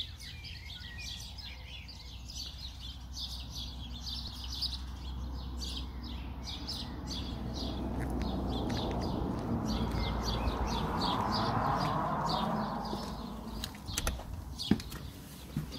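Small birds chirping over and over in short high notes, with a low rushing noise that swells and fades in the middle. Near the end come a few sharp clicks from the front door being handled and opened.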